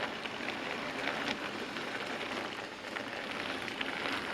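OO-gauge model Class 37 diesel locomotive running on the layout with a milk train: a steady rattling hiss of motor and wheels on the track, with light clicks. The rails under it haven't been cleaned.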